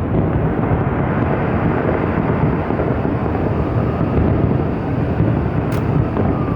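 Fireworks display: a dense, continuous low rumble of many shells bursting together, with one sharp crack near the end.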